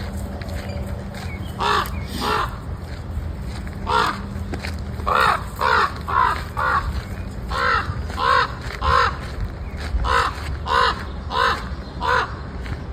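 Crows cawing repeatedly, about fourteen caws. They come every half second or so through the second half, over a steady low rumble.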